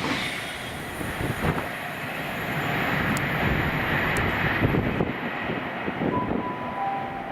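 A train running through the station, a steady rumbling rush of wheels and engine noise. Two brief high tones sound near the end.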